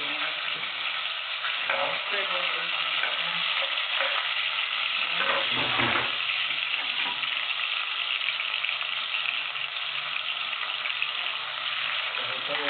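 Onion, tomato, garlic and thyme frying in hot oil in a pot: a steady sizzle, with a louder stretch about five to six seconds in.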